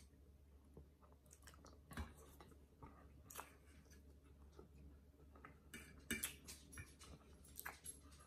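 Faint eating sounds: a man chewing, with scattered soft clicks and smacks, one sharper click about two seconds in and a cluster around six seconds.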